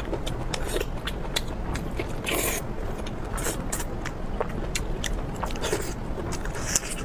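Close-miked eating: crunchy bites and chewing with many sharp crackles and a few louder crunches, over a steady low rumble.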